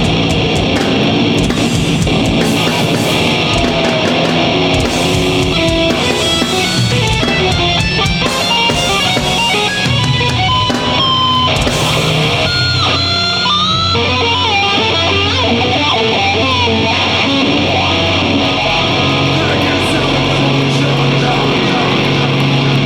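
Heavy metal band playing live through a PA, with loud distorted electric guitars; drum hits thin out about halfway through, guitar notes slide in pitch, and sustained low notes ring toward the end.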